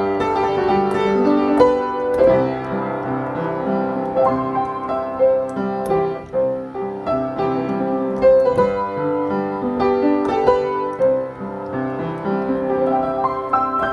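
Piano music: a single melody line over sustained chords, notes changing about every half second, with no singing.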